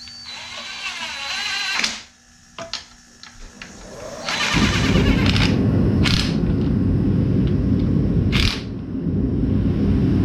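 A power tool running the engine mounting bolts in: a wavering whir with sharp metal clicks, then from about four and a half seconds in a loud, steady mechanical run that dips briefly near the end.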